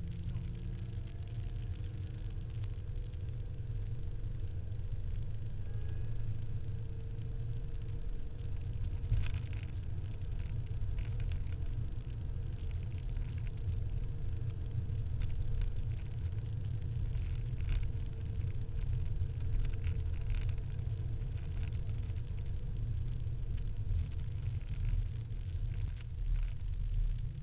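SVT Cobra Mustang's V8 running steadily as the car drives over a dry lakebed, heard from inside the cabin as an even low rumble with road noise.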